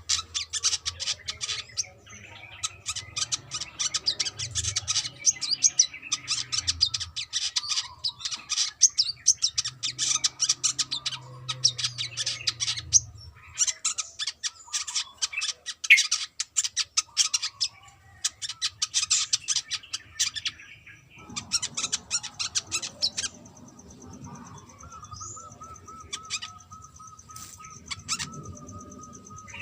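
A brown-throated sunbird singing: fast, chattering trills of sharp high chirps in bursts of a few seconds, with short breaks. Near the end the song thins to scattered notes over a faint steady high whine.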